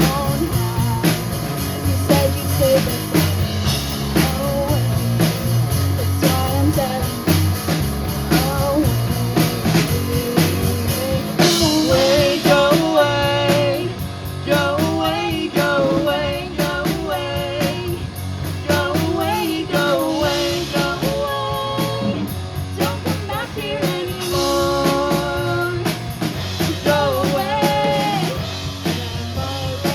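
Rock band playing, with drum kit, guitar and a singer; the vocals come in strongly about twelve seconds in.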